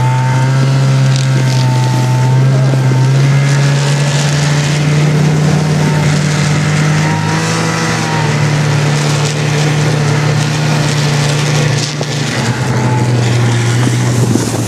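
Snowmobile engine running at a steady pitch under a loud hiss of wind and snow. The pitch rises a little midway and drops back about twelve seconds in.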